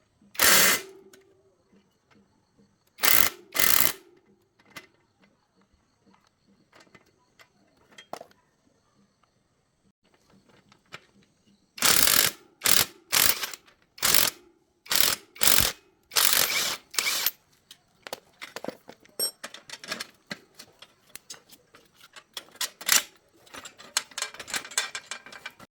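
Hands-on mechanical work on an old bicycle with metal parts and tools: a few short, loud strokes, a quick run of about eight more in the middle, then a long stretch of rapid clicking like a ratchet or freewheel.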